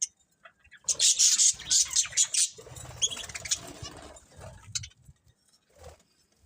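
Pet budgerigars chirping and chattering in harsh, rapid bursts, loudest for about a second and a half starting a second in, then softer and fading out near the end.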